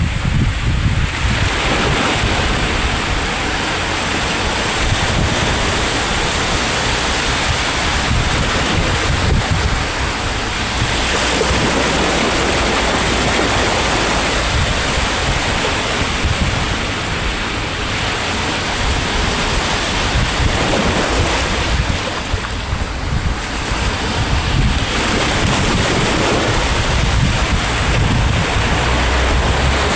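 Sea waves breaking on the shore, a continuous rushing surf that swells and ebbs every few seconds, with wind buffeting the microphone.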